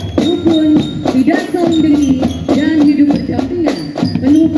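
School marching drum band playing a tune: drums struck in a steady rhythm under a wavering melody, with short high ringing notes over the top.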